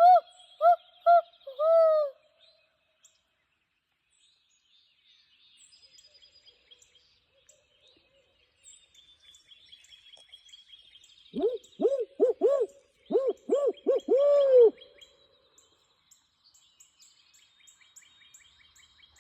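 Barred owl hooting in its rhythmic 'who-cooks-for-you' series. A short run of hoots ends in a drawn-out falling note right at the start, and a second series of about eight hoots ends in a long falling note about 11 to 15 seconds in. Faint high chirps of small birds sound in between.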